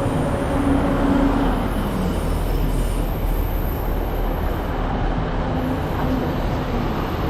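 Class 150 Sprinter diesel multiple unit pulling into the platform: a steady rumble of engine and wheels, with an engine note that drops in pitch about two seconds in.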